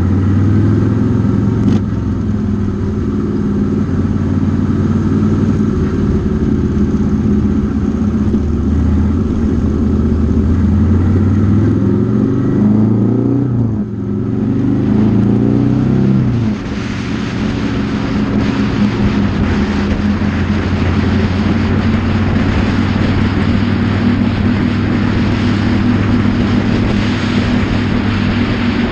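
Motorcycle engine heard from on the bike, running steadily, then revving up twice about twelve to sixteen seconds in, with a sudden drop in pitch after each rise as it shifts gear. After that it cruises with a steady rush of wind and road noise.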